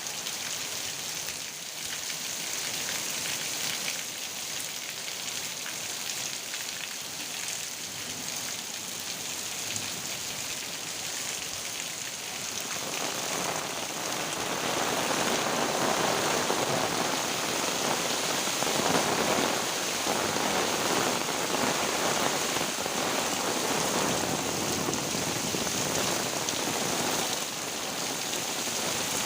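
Heavy rain falling steadily, with a continuous hiss of drops, growing heavier and louder about halfway through.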